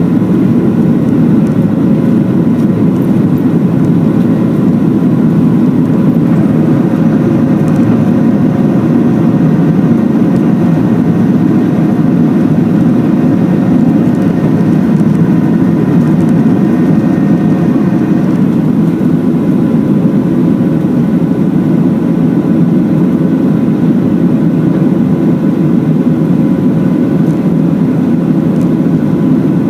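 Boeing 737-700 jet engines and airflow heard inside the passenger cabin at takeoff or climb power: a loud, steady rumble with a few faint steady whining tones, some of which fade out about two-thirds of the way through.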